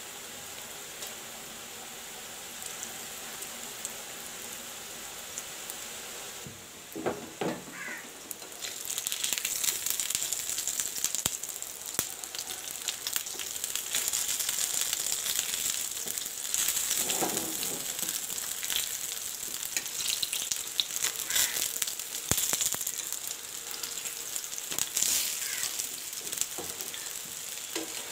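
Rice-flour fritters shallow-frying in oil on a flat nonstick pan: a steady sizzle with light crackling. The sizzle grows louder about nine seconds in.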